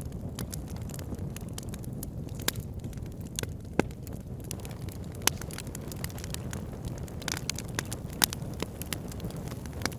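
Wood fire burning in a fireplace: a steady low rumble of flames with irregular sharp crackles and pops, a few of them louder, about two and a half, four, five and eight seconds in.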